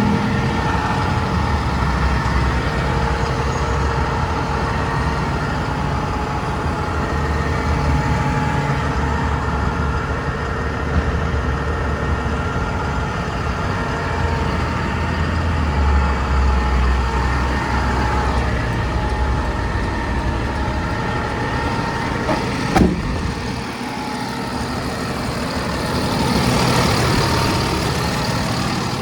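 Diesel engine of a 2014 Freightliner M2 garbage truck running steadily, with a steady whine over the engine note. A single sharp click comes about three-quarters of the way through.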